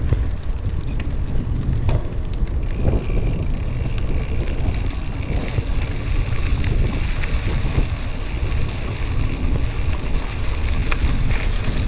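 Wind buffeting the microphone of a camera riding along on a bicycle: a loud, unsteady low rumble, with a few light clicks and rattles.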